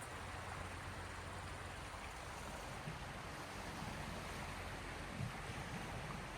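Gentle sea waves washing on the shore of the Gulf of Finland: a steady, even wash of water.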